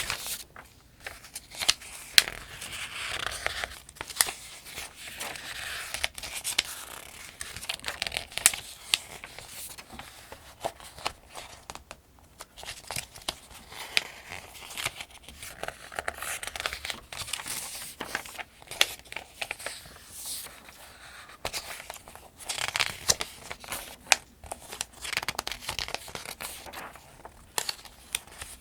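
Pages of a paperback almanac being turned one after another, each turn a papery swish and rustle with crisp flicks and snaps of the paper. The turns come at a steady, unhurried pace.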